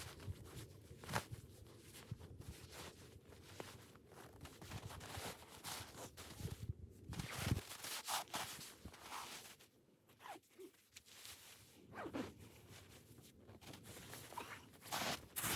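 Handling noise: short, irregular rasping strokes and rustles, as of a zipper being worked and fabric being moved.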